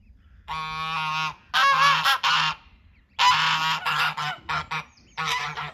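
Domestic geese honking loudly in four bouts of harsh calls, from geese guarding goslings newly out of the nest.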